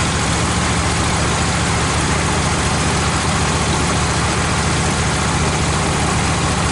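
Wood-Mizer LT15 sawmill's engine idling steadily, with no cutting.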